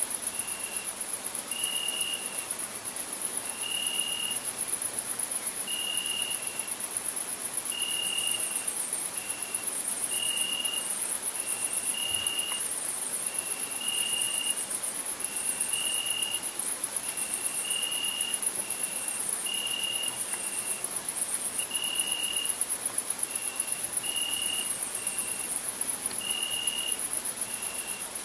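Crickets chirping in a dense, continuous, very high-pitched trill. A second, lower note repeats about once a second, longer and shorter notes taking turns.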